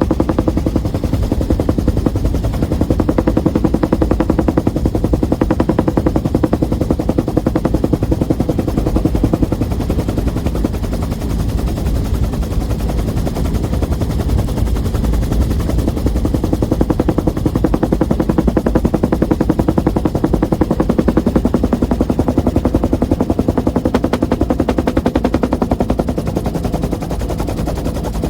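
1966 Bell UH-1 Huey helicopter in flight, heard from its open cabin door: the rapid, steady thudding of its two-bladed main rotor over a continuous drone, loud throughout.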